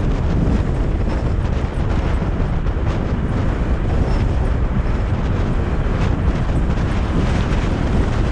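Strong nord-ost wind blasting over the microphone: a loud, steady, rumbling wind roar with the most weight in the lows.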